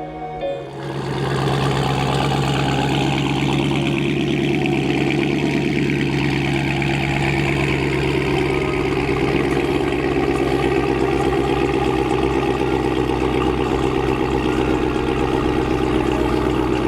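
Car engine idling steadily, starting about a second in.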